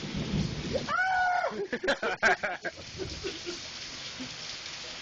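Steady rain falling during a thunderstorm, with a low rumble of thunder dying away in the first second. A voice calls out briefly from about a second in.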